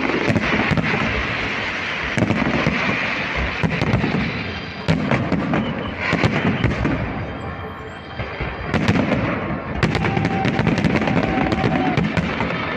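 Aerial fireworks display: many shell bursts and bangs over a dense, continuous crackle. It thins out briefly about eight seconds in, then a fresh volley builds.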